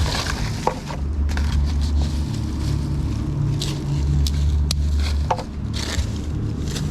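Scraping and crackling of stones and debris being shifted by hand in a search for crabs, with scattered short clicks, over a low rumble that comes and goes.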